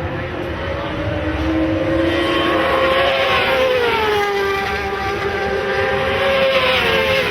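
Several racing motorcycle engines running at high revs on the circuit, their pitch rising and falling as the bikes go by. The sound is loudest through the middle.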